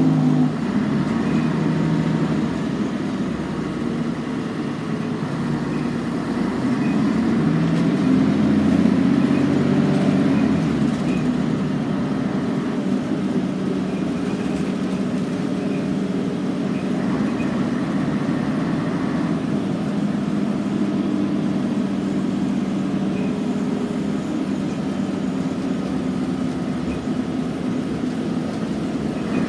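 Scania N113CRB bus's diesel engine running. Its note climbs in steps and grows louder about a quarter of the way in, then settles back to a steady run.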